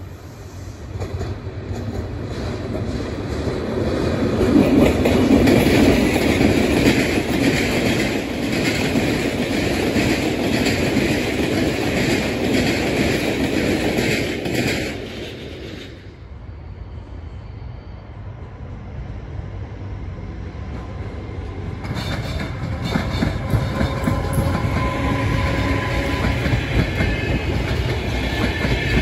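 A train hauled by a VR Sr1 electric locomotive rolls through a rail yard, rising to its loudest about five seconds in and holding steady until it cuts off suddenly. After a quieter stretch, a VR double-deck passenger train runs past, growing louder toward the end.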